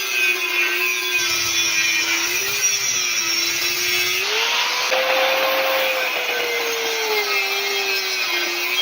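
A power tool grinding or cutting metal tube: a steady motor whine over a rasping hiss. The whine rises about four seconds in, then slowly sinks back as the load changes.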